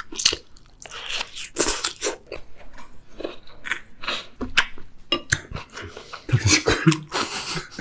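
Close-miked chewing of a mouthful of rice and salmon, with irregular wet mouth noises and a wooden spoon scraping the bowl.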